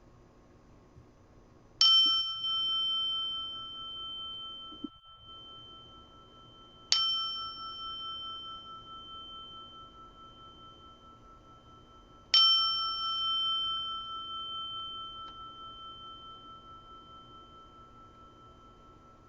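Meditation bell struck three times, about five seconds apart, each strike ringing out in a few clear steady tones that slowly fade; the last ring dies away most gradually.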